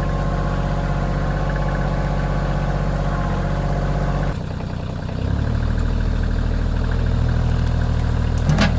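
Kioti CK2610 compact tractor's three-cylinder diesel engine running steadily. About four seconds in it dips briefly, then settles at a deeper, slightly louder note. A short sharp sound comes near the end.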